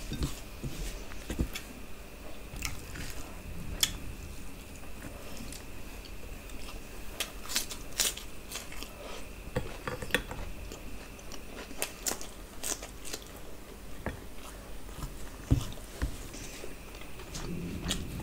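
Close-miked eating of chicken dum biryani by hand: chewing and biting with many short wet mouth clicks and smacks, occasional crunches, and fingers working the rice on a steel plate.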